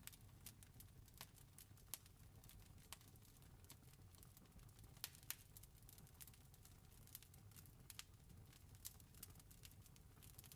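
Wood fire crackling faintly: sharp, irregular pops and snaps, a few louder ones around five seconds in, over a soft low rumble.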